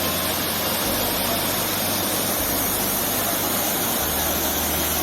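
Small waterfall's water rushing and splashing in a steady, even noise.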